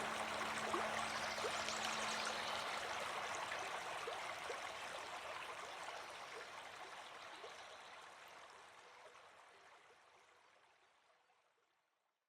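Flowing stream water, a steady wash with small gurgles, fading out slowly until it is gone near the end.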